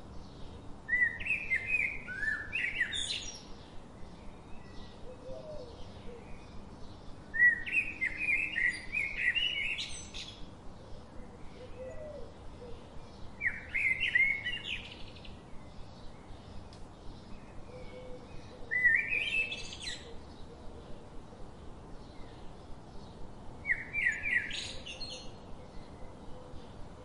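Bird chirping in short bursts of quick rising and falling notes, recurring about every five to six seconds as if looped, over a faint regular ticking a few times a second.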